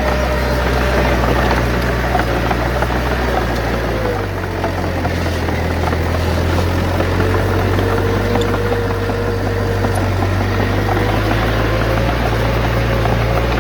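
Bulldozer's diesel engine running steadily under work, a low drone whose note changes about four seconds in.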